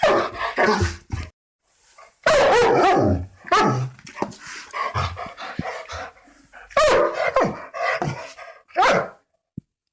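Large guard dogs barking aggressively in bursts of several barks, with short pauses between bursts.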